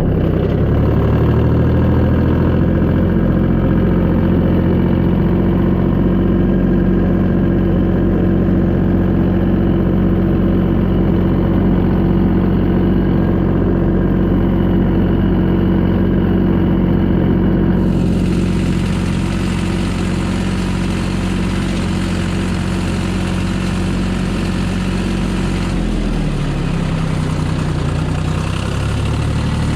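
Tractor engine running steadily at a constant speed; about 26 seconds in the engine note drops to a lower speed.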